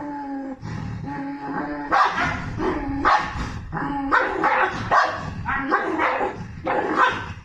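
Mioritic Shepherd dog whining in a steady high pitch for about two seconds, then giving a run of loud, harsh barks about once a second. This happens during one of the fits that its rescuers put down to a thyroid problem (hypothyroidism).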